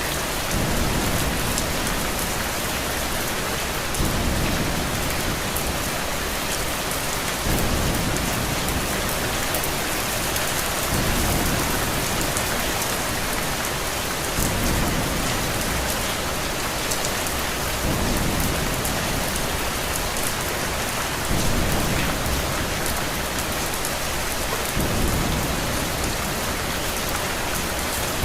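Steady rain falling, with a low rumble that swells and fades about every three and a half seconds.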